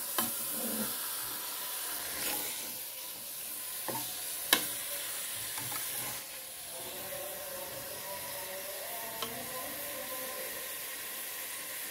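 Mutton and tomatoes sizzling in an aluminium pressure-cooker pot as a steel spoon stirs them, a steady frying hiss. A few sharp clicks of the spoon against the pot, the loudest about four and a half seconds in.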